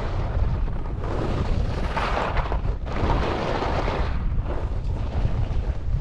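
Wind buffeting the microphone: a heavy low rumble with rushing surges, two louder ones starting about one and three seconds in.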